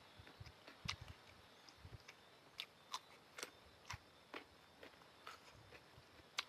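Close-miked mouth sounds of someone eating noodles: chewing with scattered sharp wet clicks and smacks and a few soft low thumps, the sharpest click near the end.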